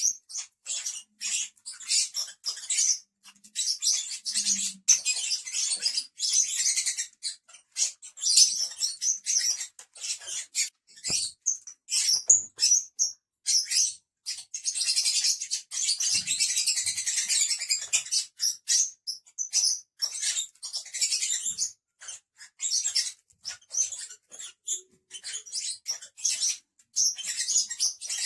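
Pet lovebirds chattering: rapid, high-pitched chirps and squeaks in bursts with short breaks.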